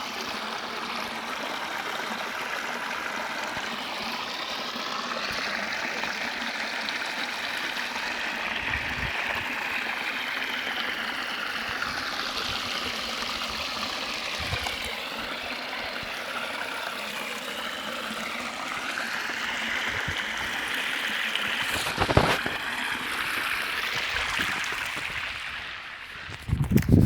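Steady rush of flowing water, as of a stream or small cascade. A single knock sounds about 22 seconds in, and a few thumps come near the end.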